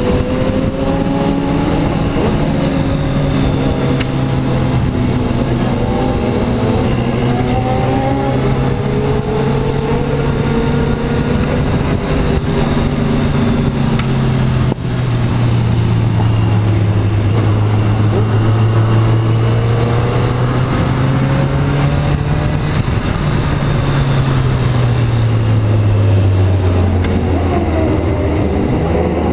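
Kawasaki Z motorcycle engine running at a steady cruise, heard from the bike over wind rush. There is a brief break in the sound about halfway, and over the last few seconds the engine note falls as the bike slows.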